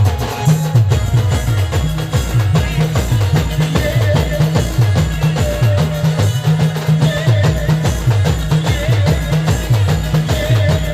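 Timli folk dance music played by a band: a driving drum beat over a repeating bass line, with a wavering lead melody on top.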